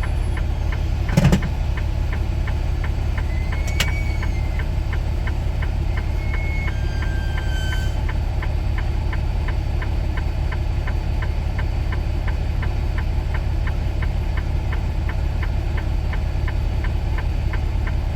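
Semi truck's diesel engine idling, heard from inside the cab, with an even, rapid ticking running over it. There is a single loud thump about a second in.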